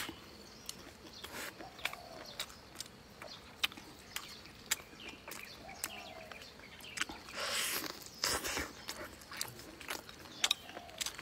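A person eating with chopsticks close to the microphone: chewing with many sharp wet mouth clicks and smacks, and a couple of louder noisy bursts about two thirds of the way in.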